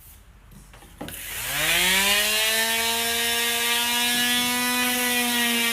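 Handheld electric power tool starting up about a second in, its motor whine rising in pitch and then running at a steady speed with a hiss, as it sands and shapes the edges of a custom dashboard piece.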